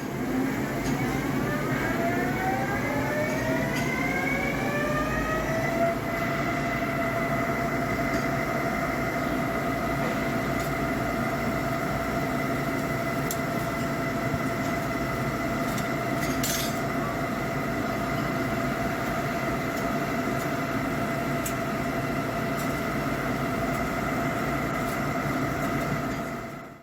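Hankook PROTEC-9NC CNC lathe's spindle drive whining up in pitch for about the first six seconds, then running at a steady pitch over a constant mechanical hum.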